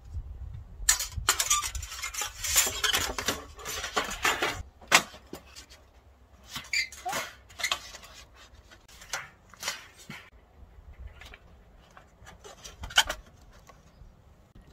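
Metal camp cookware and utensils clinking and clattering as they are handled: a busy run of knocks and clinks for the first few seconds, then scattered single clinks.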